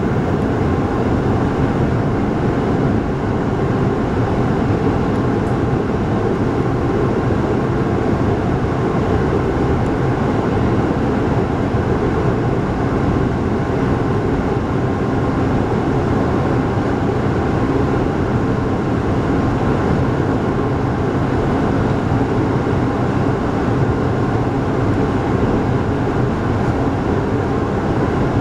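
Steady running noise of a local passenger train at speed, heard from inside the carriage: an even low rumble of wheels on rails and running gear, with no horn or announcement.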